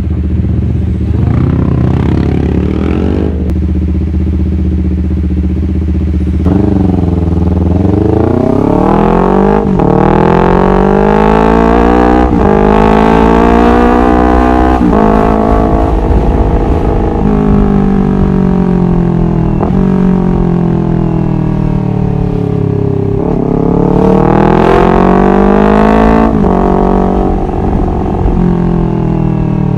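Honda CBR250RR engine idling steadily, then revved up slowly to a high, held note, let fall back, and revved up and down once more near the end.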